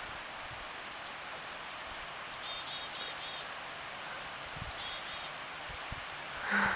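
Small backyard songbirds calling: short, high chirps in quick runs of three to five notes, repeated throughout over a steady outdoor hiss.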